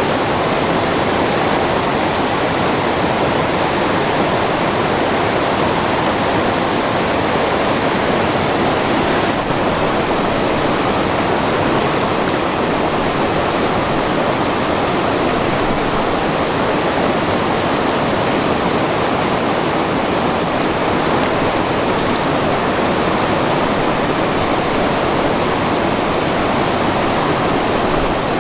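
Rushing water of a mountain stream, a steady, unbroken noise.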